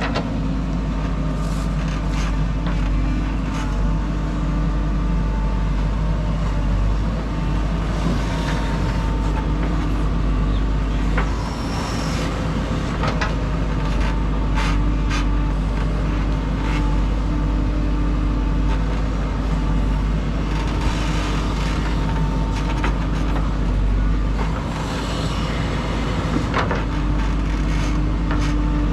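JCB 3DX backhoe loader's diesel engine running steadily at working speed, with a thin high whine that wavers slightly and occasional sharp clanks as the machine works soil.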